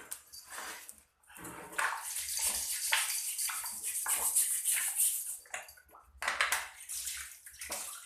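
Water splashing and sloshing in a basin as fish are handled and cleaned by hand, in a run of irregular splashes and scrapes.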